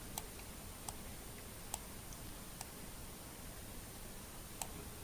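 A few faint computer mouse clicks, about five, spaced irregularly over low hiss with a thin steady high whine.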